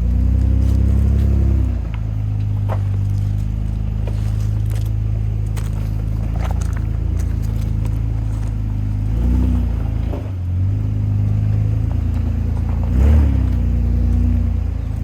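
Muffler-deleted Toyota Land Cruiser 80 series 1FZ-FE inline-six running at low revs off-road, a steady exhaust drone. The revs rise and fall briefly three times: at the start, about nine seconds in and about thirteen seconds in. Occasional light clicks and scrapes.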